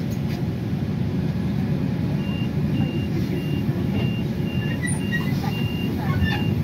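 City bus running with a steady low rumble, and a run of about eight short high beeps, roughly two a second, starting about two seconds in.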